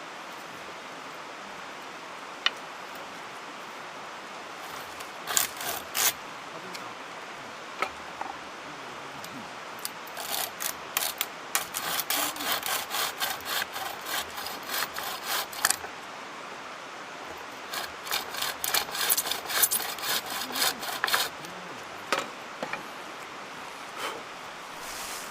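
Bucksaw cutting through wood in two runs of quick back-and-forth strokes, about two a second, with a short pause between them; a few single scrapes come first.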